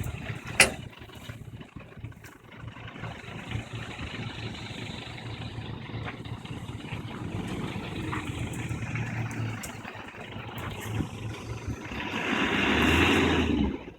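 Off-road 4x4 engine running steadily. There is one sharp knock about half a second in, and from about twelve seconds a louder stretch of engine and noise that cuts off abruptly near the end.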